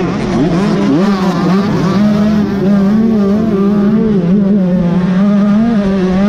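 Motocross dirt bike engine running at high revs, its pitch wavering up and down slightly with the throttle.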